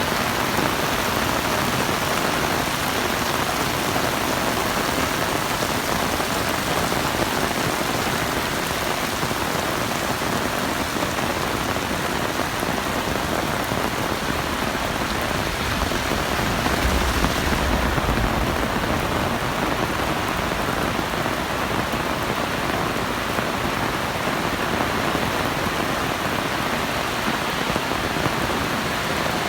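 Heavy rain falling steadily, a dense hiss of drops hitting surfaces. A brief low rumble comes a little past halfway.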